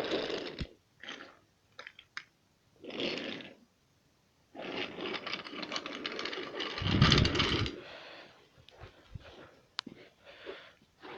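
Wooden toy train with its coaches rolling and clattering along wooden track, heard in several short bursts with scattered clicks. The longest and loudest run is from about four and a half to eight seconds in.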